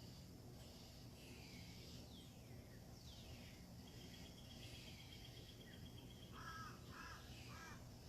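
Birds calling: several quick chirps that slide down in pitch, and a high ticking trill that runs for about three seconds. Three short harsh calls come near the end.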